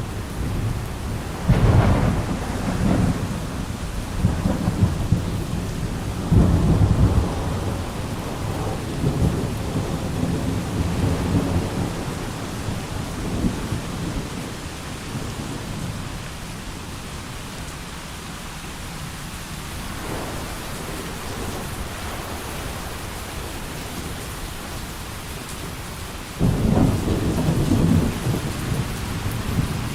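Steady heavy rain with rolling thunder. A long rumble builds about two seconds in and dies away by the middle, then a loud rumble breaks in suddenly near the end.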